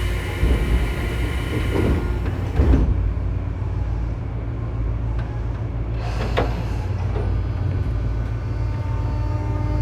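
Inside a Tobu 9000 series electric train car at a station stop: a hiss of air in the first three seconds ending in a thud as the doors close, then a steady low rumble with the armature-chopper control equipment's thin steady tones, and a low whine starting to rise at the very end as the train begins to pull away. The chopper in this car is known for an abnormal noise.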